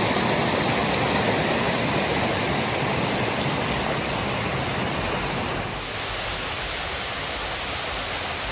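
Waterfall rushing: a steady, dense roar of falling water that eases slightly after about six seconds.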